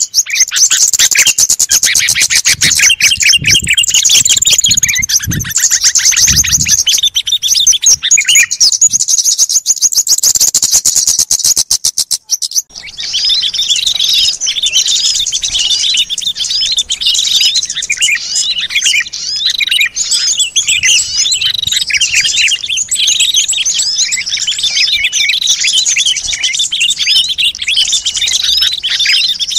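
Many small songbirds chirping and twittering at once, as played in a bird-lure recording. About twelve seconds in, the sound drops out for a moment and a busier chattering chorus starts.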